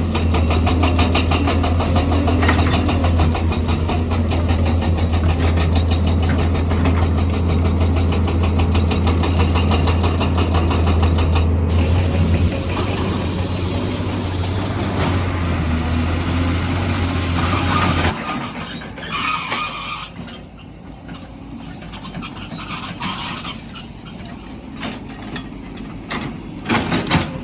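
Heavy construction machine's diesel engine running with a steady low drone, with clattering and scraping above it. About two-thirds of the way through the engine drone stops and quieter scattered knocks and scraping remain.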